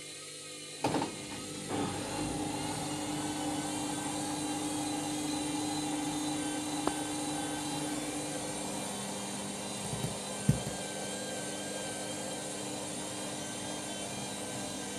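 Candy washing machine running in its pre-wash: a couple of knocks, then a steady motor whir sets in. Its hum drops to a lower note a little past the middle, with one sharp knock from the machine about two thirds of the way through.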